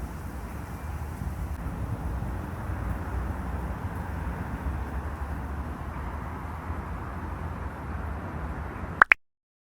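Steady low outdoor rumble of ambient noise. Near the end come two sharp clicks, then the sound cuts off abruptly to dead silence.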